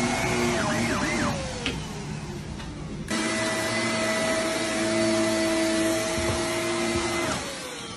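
A steady electric motor hum with a whine. About half a second in it switches off and winds down, falling in pitch. About three seconds in it starts again abruptly, runs steadily, and winds down again near the end.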